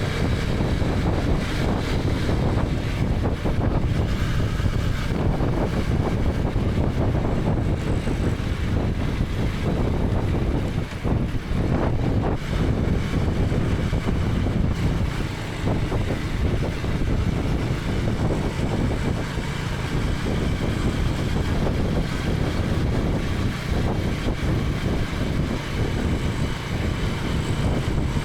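KTM 250 Adventure's single-cylinder engine running while riding, mixed with wind rushing over a helmet-mounted camera. Steady throughout, dipping briefly about eleven seconds in.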